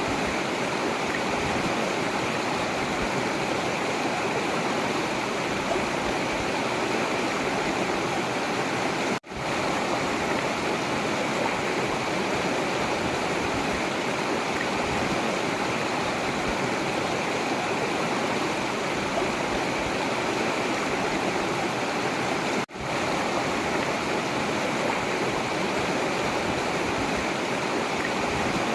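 Forest river water rushing steadily. The sound cuts out for an instant twice, about a third of the way in and again near three-quarters through.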